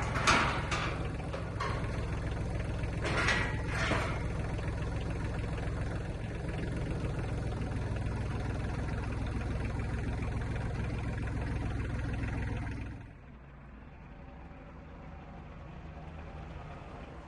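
Tractor engine idling steadily, with a few short knocks in the first four seconds. The engine is shut off about thirteen seconds in.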